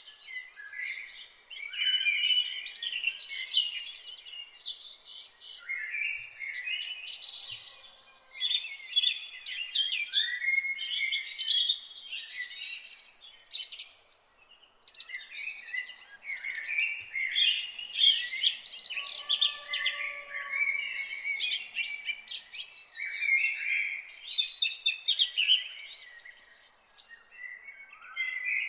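A chorus of songbirds singing at once: many overlapping quick chirps, twitters and trills, continuous, with a fainter lower whistled note about two-thirds of the way through.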